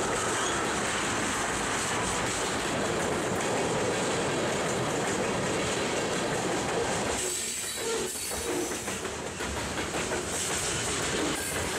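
Freight train tank cars and covered hoppers rolling past, steel wheels running on the rails with a steady rumble. It briefly eases about seven seconds in.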